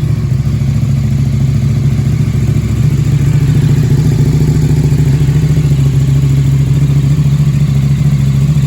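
2014 KTM 1290 Super Duke R's V-twin idling steadily through an Akrapovič titanium exhaust, a little louder from about three seconds in.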